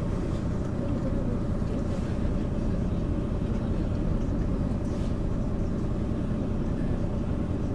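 MAN ÜL 353 intercity bus's diesel engine and running gear, a steady rumble with a constant hum, as the bus drives along at an even pace.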